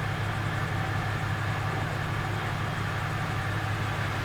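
A motor vehicle engine idling, a steady low hum.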